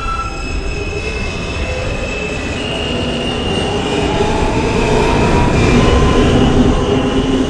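New York City subway train running between stations, heard from inside the car: a steady low rumble of wheels on track with drawn-out high whining tones, growing louder in the last couple of seconds.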